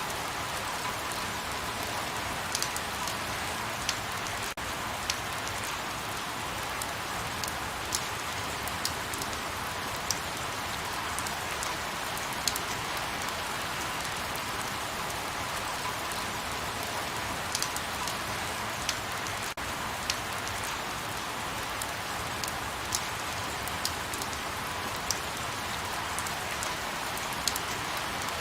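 Light rain falling steadily, an even hiss with scattered sharper drops ticking on a surface.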